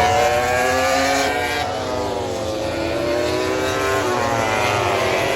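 Several MotoGP race motorcycles running on the circuit, their engines overlapping with pitches rising and falling as they pass.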